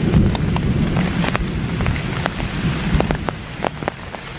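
Heavy rain falling on forest leaves, with many sharp drops striking close by. A low rumble of thunder sits under it and fades in the second half.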